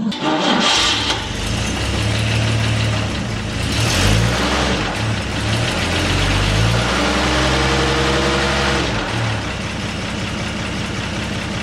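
1948 Chevrolet inline-six engine running at idle, its pitch rising and falling a couple of times as it is revved lightly.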